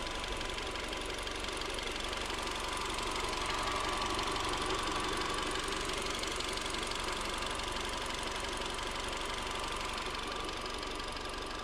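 Dacia Duster's 1.6 SCe naturally aspirated four-cylinder petrol engine running steadily, rising a little a few seconds in and settling again.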